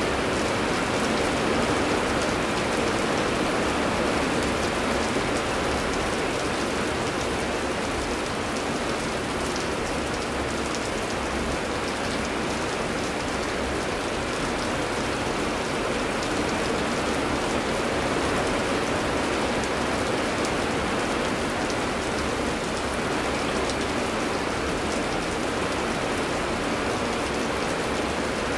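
Steady heavy rainfall, a dense even patter of drops landing on surfaces.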